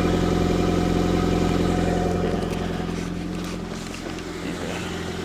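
2004 Nissan Sentra's 1.8-litre four-cylinder (QG18DE) idling steadily while it warms up from a cold start, its exhaust running through a muffler the owner believes is badly damaged. The sound grows quieter about halfway through.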